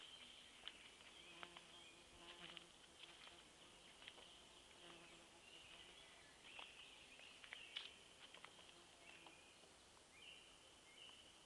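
Faint forest ambience with a flying insect buzzing by in short spells, over a steady high chirring in the background and scattered small clicks and rustles.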